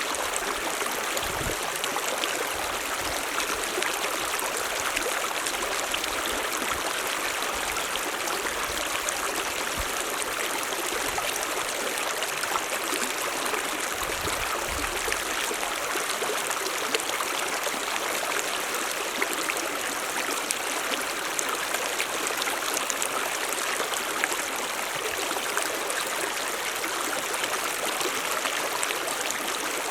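Mountain stream running: a steady rush of flowing water.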